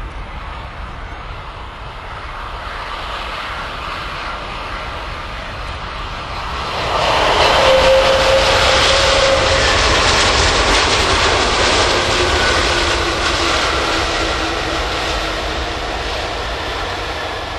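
Airbus A330 jet airliner's engines growing sharply louder about seven seconds in as the aircraft passes, with a whine that drops in pitch, then slowly fading.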